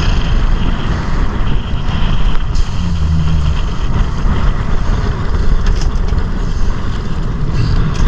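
Strong wind buffeting the microphone over choppy, rough seas around a drifting boat: a loud, steady rumble with a hiss of wind and water.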